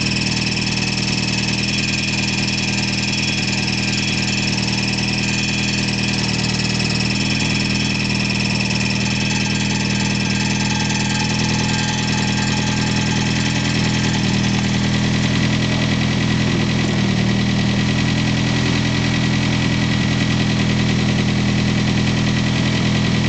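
Freshly rebuilt Ford 2.3-litre turbo inline-four idling steadily on its first run. It carries a squeaking, rattling sound that the owner puts down to an unhappy torque converter.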